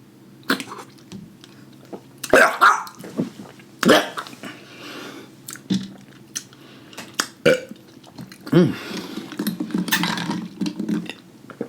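Close-miked mouth sounds of a man eating: sharp smacks every second or two, then a drawn-out burp starting about eight and a half seconds in.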